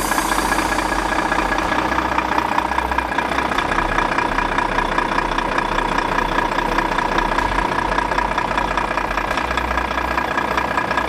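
Volvo FM 360 tipper truck's diesel engine idling steadily, its pitch unchanging.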